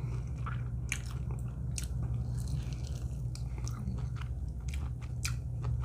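A person chewing and biting into sauced barbecue chicken wings close to the microphone: scattered short mouth clicks and smacks every so often, over a steady low hum.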